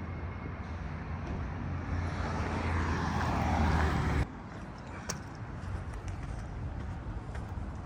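A motor vehicle passing on a city street, its low engine rumble and tyre noise building to the loudest point about four seconds in, then cutting off suddenly; quieter street traffic noise after.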